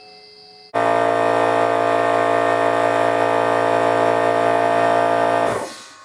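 A power tool's electric motor starts abruptly, runs at a steady pitch for about five seconds, then winds down.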